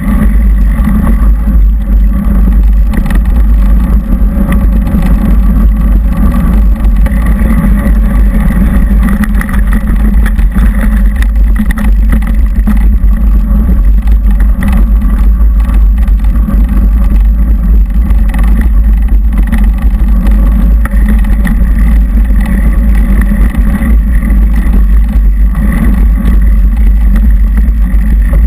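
Mountain bike riding over a trail, picked up by a GoPro carried on the ride: loud, steady wind-and-vibration rumble with constant small rattles and knocks from the rough ground.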